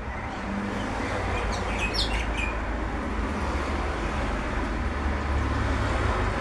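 A few short, high bird chirps about one and a half to two and a half seconds in, over a steady low rumble of background noise.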